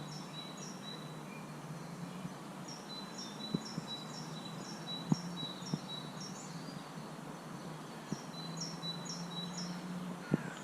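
Songbirds singing: runs of short, high, repeated chirps, broken by brief pauses, with a thin steady whistled note among them. A steady low hum runs underneath, with a few faint clicks.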